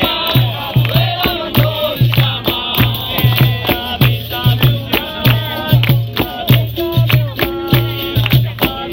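Capoeira roda music: berimbau with caxixi rattle and hand percussion playing a steady rhythm, with voices singing over it.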